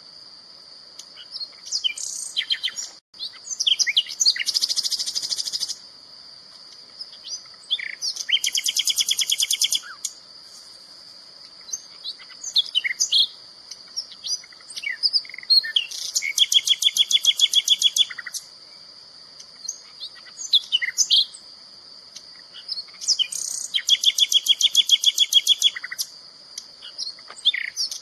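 Songbird singing: four fast, buzzy trills of about two seconds each, spaced several seconds apart, with short sharp chirps in between. Beneath them runs a steady high-pitched tone.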